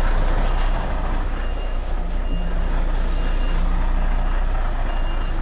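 Articulated lorry reversing: its reversing alarm gives a short high beep about once a second over the steady low drone of the diesel engine.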